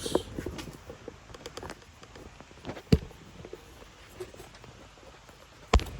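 Small clicks and rustles of mini bike parts and tools being handled, with two sharp knocks: one about three seconds in and a louder one near the end.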